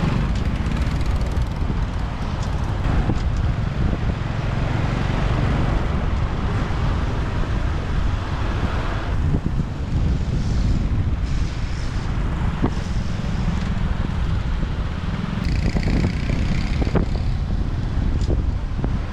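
Motorbike riding through city traffic: a steady engine and road rumble with wind on the microphone.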